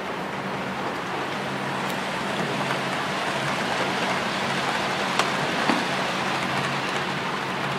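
A train making a steady rushing noise under a low hum, with two sharp clicks a little after five seconds in.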